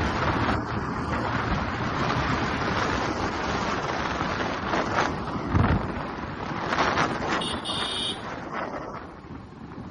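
Royal Enfield Classic 350 single-cylinder engine running at road speed, with heavy wind noise on the microphone. A vehicle horn sounds briefly about three-quarters of the way through, and the engine and wind noise ease off near the end.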